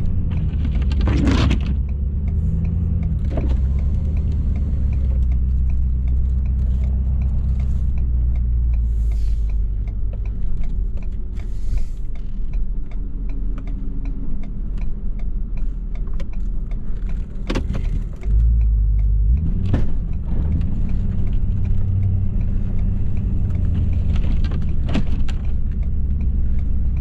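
A Ford 6.7-litre Powerstroke V8 turbo-diesel running under a steady low rumble as the pickup plows snow, heard from inside the cab. A few short knocks break in, the first about a second in and several more in the second half.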